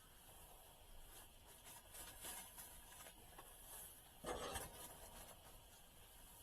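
Faint rustling and scuffling, with a louder brief rustle about four seconds in.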